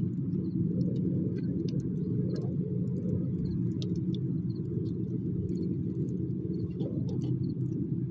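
A steady low rumble with faint, sharp crackles scattered throughout, as of burning firewood.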